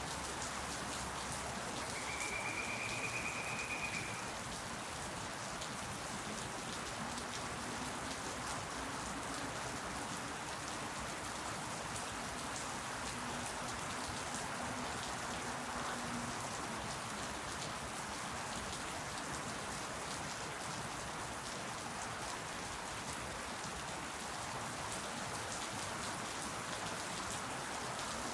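Steady rain falling, with many separate drops ticking close by. A brief high, thin tone sounds about two seconds in.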